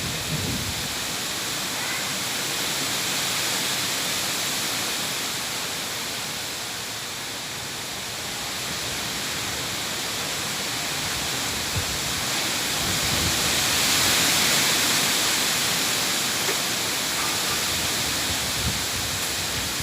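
Strong wind blowing hard: a continuous rushing hiss that swells to its loudest a little over two-thirds of the way through, with a few brief low rumbles of wind buffeting the microphone.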